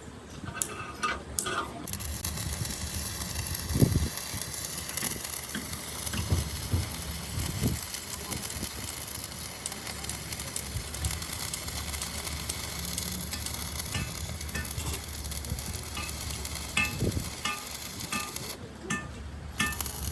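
Electric welding on the truck body: a continuous crackling, frying hiss of the arc. It starts suddenly about two seconds in, runs steadily, and cuts off near the end with a short restart.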